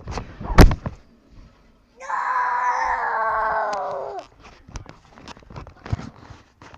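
A sharp knock, the loudest sound, about half a second in. Then a long high-pitched cry held for about two seconds, falling slightly in pitch, with scattered light clicks.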